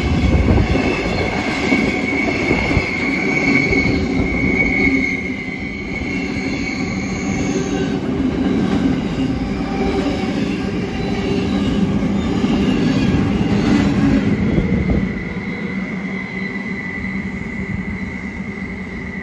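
Empty freight wagons rolling past close by, their steel wheels rumbling steadily on the rails. A high, steady wheel squeal rings over the rumble for the first few seconds and again near the end.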